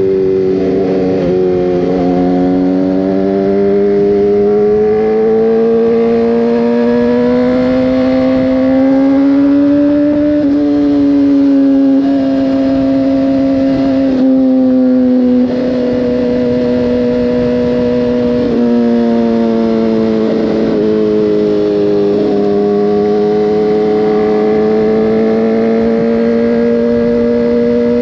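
Motorcycle engine running at cruising speed, its note rising slowly over the first ten seconds, easing down, then holding steady, with several short breaks in the note along the way.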